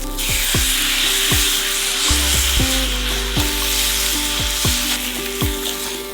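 Food frying, with a steady sizzle, over background music with a regular falling bass beat.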